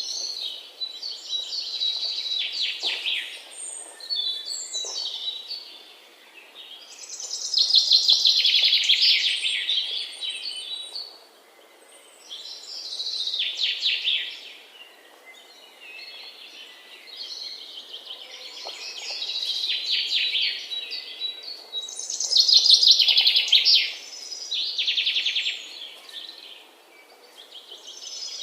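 A songbird singing: repeated high-pitched phrases of rapid notes lasting a second or three each, with short pauses between them.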